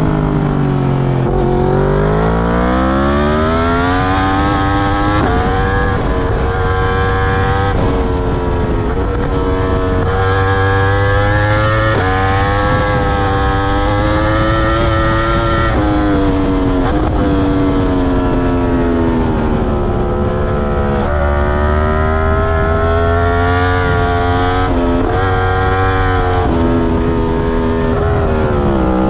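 Yamaha R1 crossplane inline-four engine through an Akrapovic full titanium exhaust with dB killer, heard onboard at track speed. Its pitch falls under braking at the start, then climbs through the revs again and again, stepping down sharply at each gear change, with another slowdown about two-thirds of the way through.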